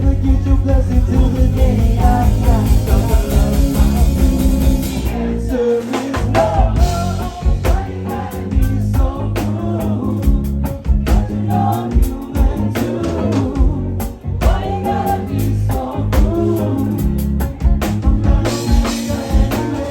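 Live band playing with singing over drums, bass and guitar. About five seconds in, the heavy low end thins out and the drums carry a choppier rhythm.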